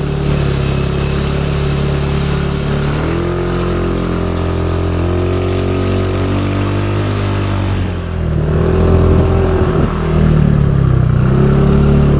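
Motorcycle engine running under way. Its note shifts about three seconds in, dips briefly near eight seconds, then comes back louder and rises and falls toward the end.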